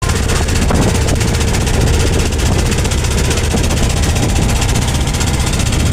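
Strong wind buffeting the microphone: a loud, steady, deep rumble with a hiss over it.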